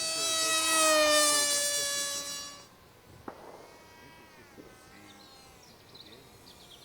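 Electric motor and propeller of a radio-controlled model aeroplane whining as it flies past, the pitch falling slightly. About two and a half seconds in it drops away sharply, leaving a faint, more distant whine that rises and falls in pitch.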